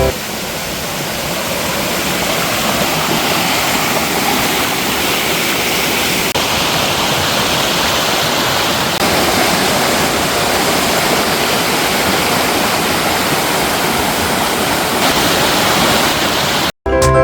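Mountain valley stream water rushing and splashing over rocks, a steady loud rush that shifts slightly in character a few times and cuts off suddenly near the end.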